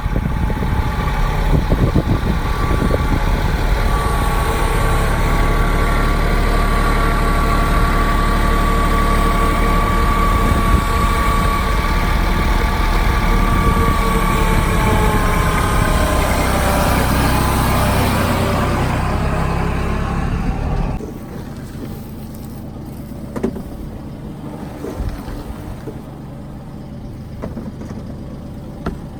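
A vehicle engine running steadily, its pitch sagging slightly just before the sound drops away sharply about three quarters through, leaving a quieter background with a few knocks.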